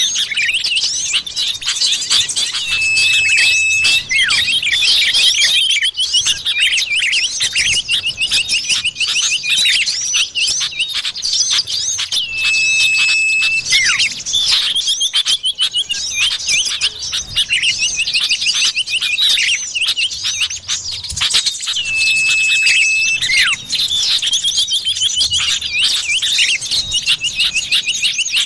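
Common iora (cipoh) calls in a bird-lure recording: continuous rapid, high chirping and trilling, with a long level whistle that comes three times, about every nine seconds.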